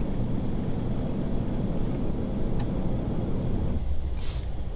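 Steady airflow and engine rumble inside the cockpit of an Airbus A380 in flight. The rumble thins a little near the end, and a short hiss comes about four seconds in.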